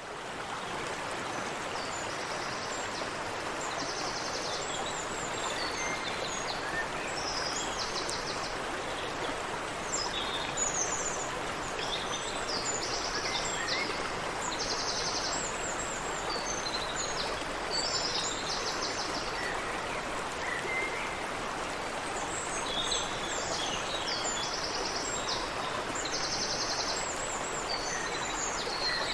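Creek water running steadily over rocks, with birds singing above it: short, high, buzzy trills about every two to three seconds and scattered chirps.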